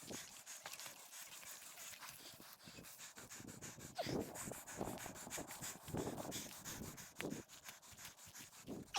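An animal's short, falling whines, a few of them a second or more apart, over a faint rapid clicking.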